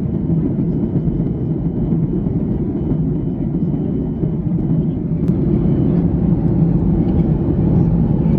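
Steady low rumble of cabin noise inside a Boeing 737-800 airliner in flight, from its engines and the airflow. A single faint click comes about five seconds in, and the noise grows a little louder over the second half.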